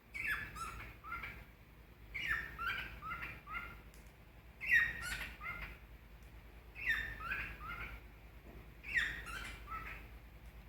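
Cockatiel singing: the same short whistled phrase, a downward-sliding note followed by a few shorter notes, repeated about every two seconds, five times.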